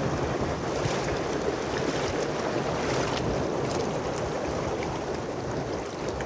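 Small waves washing in at the shoreline, with wind buffeting the phone's microphone in a steady rush.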